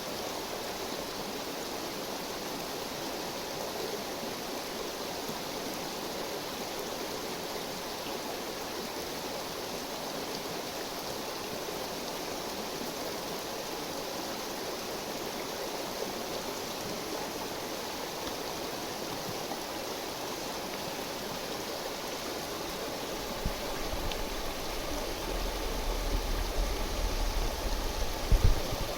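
Steady rushing murmur of a river flowing nearby. Near the end a low rumble joins it, with a brief thump just before the end.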